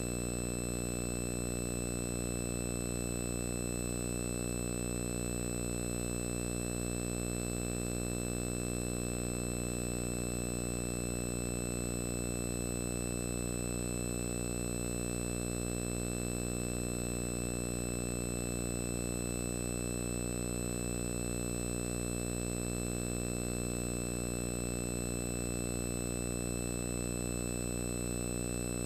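A steady, unchanging buzzing hum with many overtones and no variation. It sounds like electrical hum on the tape rather than any sound from the scene.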